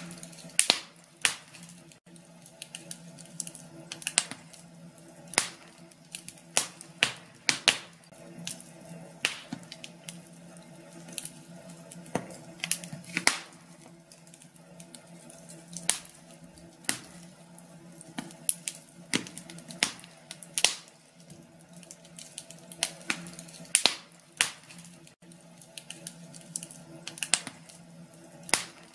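Wood fire crackling in a fireplace: irregular sharp pops and snaps, several a second with uneven gaps, over a faint steady hum.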